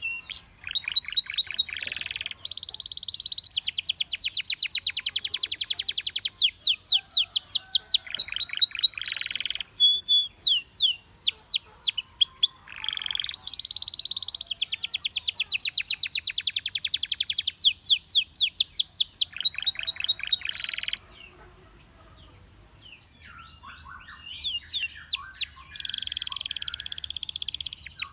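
Belgian canary singing long phrases of rapid trills and rolling repeated notes, broken by short pauses. About three-quarters of the way through there is a quieter break of a couple of seconds before the song resumes.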